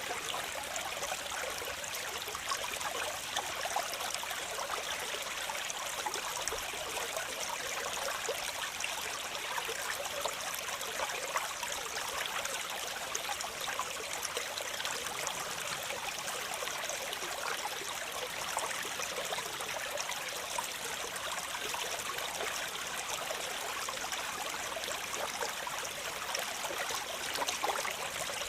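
Waterfall: a steady, unbroken rush of falling water, splashing and hissing rather than a deep rumble.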